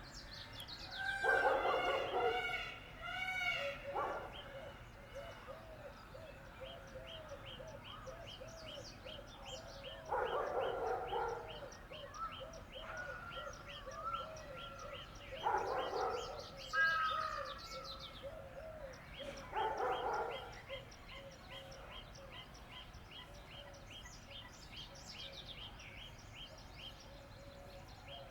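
Indian peafowl (peacock) giving several loud, harsh calls spaced out over the stretch. Behind them runs a fast, steady, high chirping from other birds or insects.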